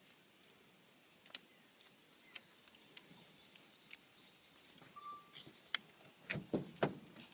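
Faint, scattered clicks and crackles of a vinyl decal and its backing paper being handled and slowly peeled apart, with a short burst of louder crinkling near the end.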